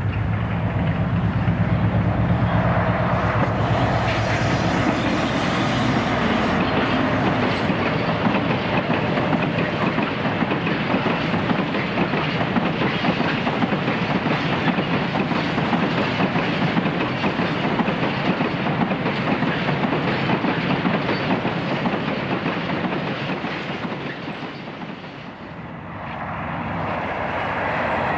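A heavy diesel freight locomotive passes close by with its engine running, followed by a long train of freight wagons clattering over the rail joints. Near the end the clatter fades and a different train's sound comes up.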